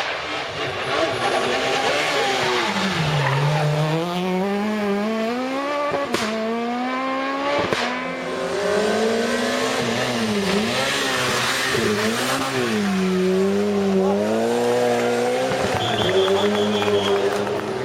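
Rally car engine revving hard, its pitch climbing and dropping again and again through gear changes and lifts, with tyres squealing. Two sharp cracks stand out about six and eight seconds in.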